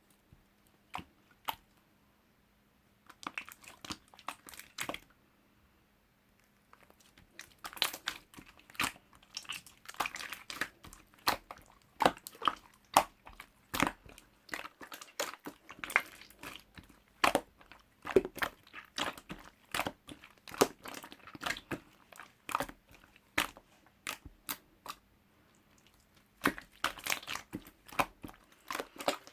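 Slime being mixed with clay and squeezed by hand: quick runs of sticky clicks and crackling pops, broken by a few short pauses.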